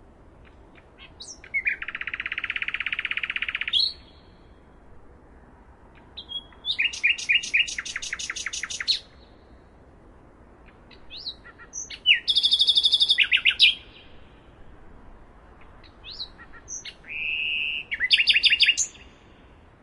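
A songbird singing four phrases, each a rapid trill of fast-repeated notes lasting two to three seconds, with pauses of a few seconds between them.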